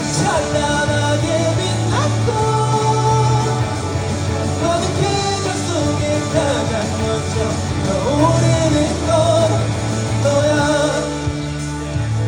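A singer sings a pop-rock song live over amplified band accompaniment with a steady bass line.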